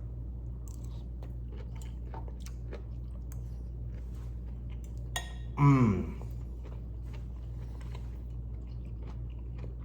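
A person chewing a mouthful of tofu, broccoli and rice, with soft mouth clicks over a steady low hum. About halfway through comes a short voiced "mm" that falls in pitch.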